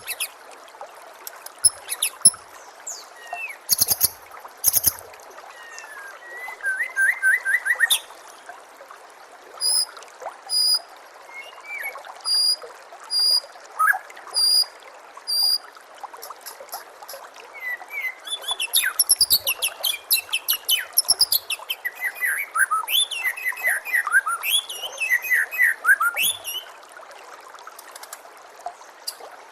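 White-rumped shama (murai batu) singing over steadily trickling water: a varied song with a run of short, evenly repeated whistled notes, then fast cascades of falling notes after the middle.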